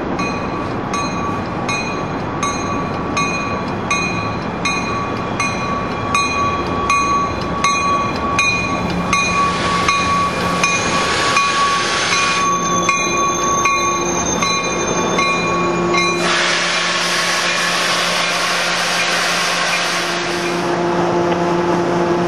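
Coaster commuter train rolling in past the platform, bilevel cars going by and then its diesel locomotive drawing up and stopping, with a steady engine hum. A grade-crossing bell rings about twice a second through the first half, and a long hiss of air comes in the second half.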